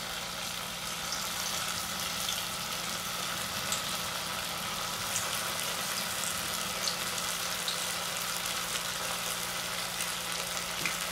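Cornstarch-coated tofu cubes frying in hot oil in a stainless steel saucepan: a steady sizzle with small scattered pops and crackles.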